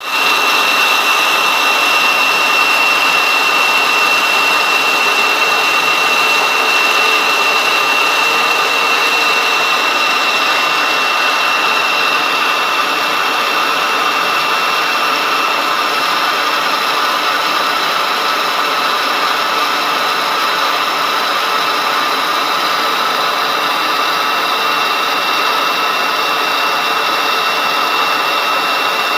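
Scandinavian Airlines Airbus A320's jet engines running at a steady setting: an even rushing noise with a constant high whine, with no rise or fall in level.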